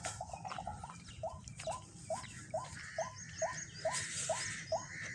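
A bird calling a short, rising note over and over at an even pace of about two a second, with fainter high chirps from other birds joining partway through.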